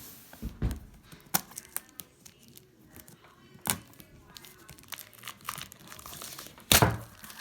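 Packaging being handled and opened by hand: irregular crinkling and tearing rustles with scattered sharp crackles, the loudest burst near the end.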